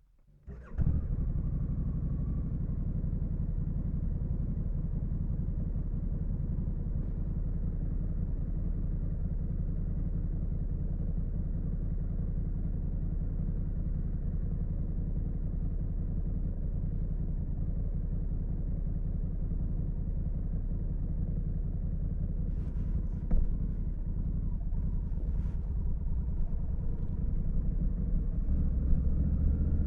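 Honda Africa Twin CRF1100L's 1084 cc parallel-twin engine starting up about half a second in and then idling steadily. A short knock comes near the end, and the low rumble grows louder over the last couple of seconds.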